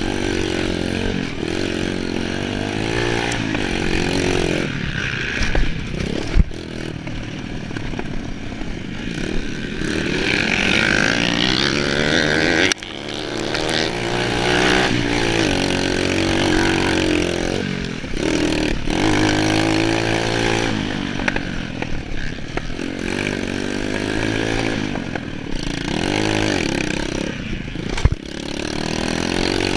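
Motocross dirt bike engine being ridden, its revs climbing and dropping over and over through gear changes and throttle, with a few sharp knocks from the bike over the terrain.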